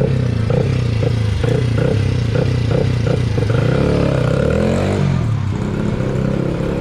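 Small two-stroke motorbike engine running, its pitch dipping and then rising again about four to five seconds in.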